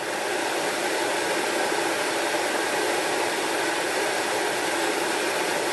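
Whirlpool range-hood exhaust fan running at speed, a steady rushing whoosh of blown air.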